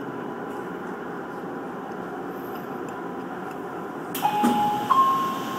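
Tokyu Toyoko Line electric train running along the track with a steady rumble. About four seconds in, a sudden hiss and a two-note tone sound, the second note higher and held longer.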